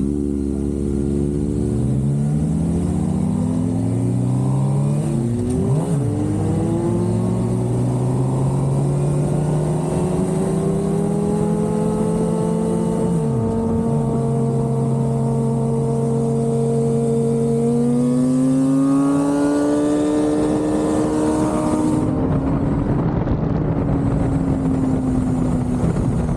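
Inline-four sport bike engines accelerating hard through the gears. The pitch climbs and drops sharply at each upshift, then holds high at speed under heavy wind rush.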